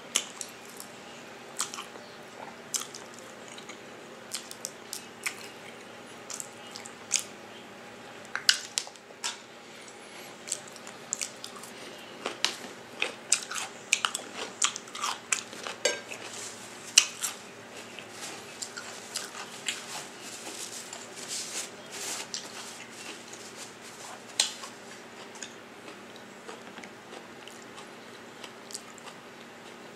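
A person chewing and biting food, with many short sharp mouth clicks and smacks that thin out near the end.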